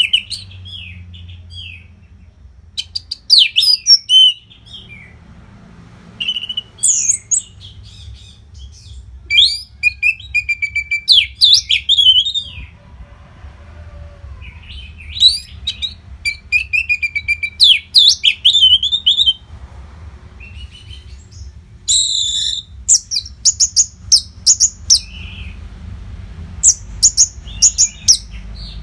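Orange-headed thrush singing in a string of loud, varied phrases of rapid sweeping whistles and trills, each a second to a few seconds long, with short pauses between them. A faint steady low hum runs underneath.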